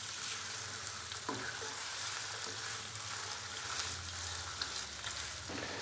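Chicken pieces sizzling in hot oil in a nonstick kadai, stirred with a silicone spatula that scrapes now and then; the chicken is being seared on high flame to drive off its water.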